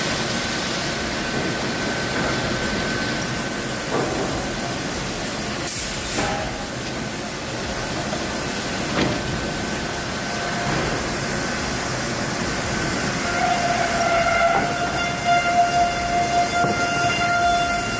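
Heavy machinery running with a steady hiss and a high whine. A few knocks come at intervals, and a lower whining tone joins about two-thirds of the way through.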